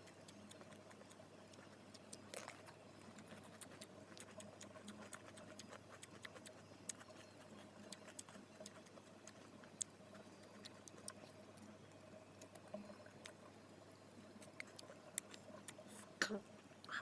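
Faint, scattered clicks and smacks of someone eating with his hands and chewing grilled fish, over a faint steady hum.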